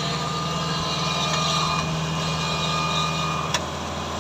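Farm machine's engine running steadily, with one sharp click about three and a half seconds in.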